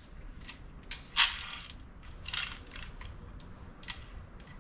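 Small metal parts clinking and being shuffled as someone rummages for a bolt, with a louder metallic clink about a second in and another a little after two seconds.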